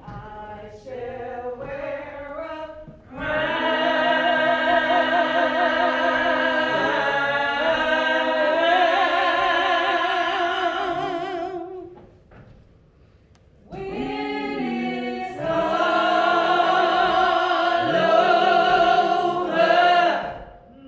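Church choir singing long held notes with vibrato, after a few short opening notes. The singing breaks off briefly about twelve seconds in, then resumes and ends near the end.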